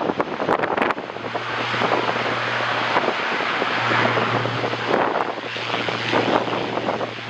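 Strong gusting wind buffeting the microphone, with an airliner's engines running through it from about a second in.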